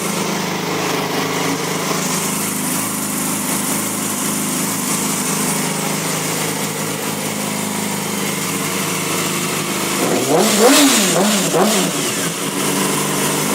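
2007 Yamaha YZF-R6's inline-four engine idling steadily through a Graves aftermarket exhaust. About ten seconds in, the throttle is blipped a few quick times and the revs rise and fall before settling back to idle.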